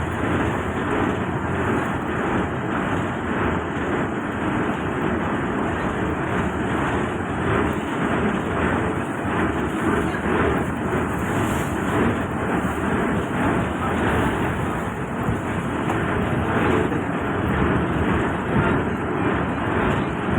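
Engine of a river passenger boat running steadily under way, mixed with a continuous rush of water and wind.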